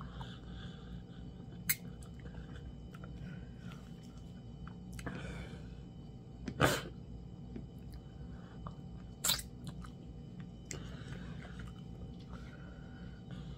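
Close-miked mouth sounds of a person eating fufu and meat in soup by hand: soft chewing and wet smacking, with a few sharp clicks, the loudest just past the middle. A steady low hum runs beneath.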